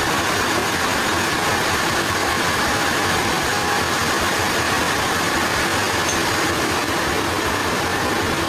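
Sawmill machinery running steadily, a constant engine-and-saw noise with no breaks or sudden knocks.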